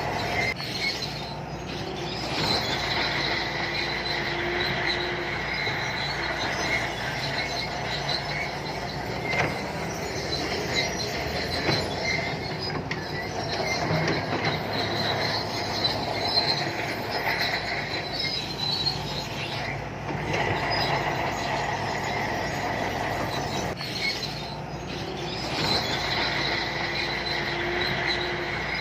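Crawler bulldozer working: its diesel engine runs steadily under a sustained high-pitched squeal and clatter from the steel tracks, which swell and fade as the machine moves.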